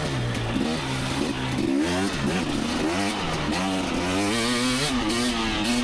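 Two-stroke dirt bike engine revving up and down as it is ridden along a trail, its pitch rising and falling with the throttle, with a brief drop off the throttle about two seconds in.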